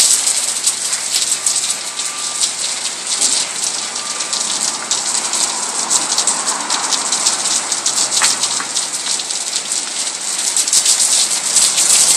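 Water pouring and splashing down heavily from a flooded apartment block, a steady dense hiss of falling water that grows a little louder near the end. The water is mains water backing up and pouring out on every floor.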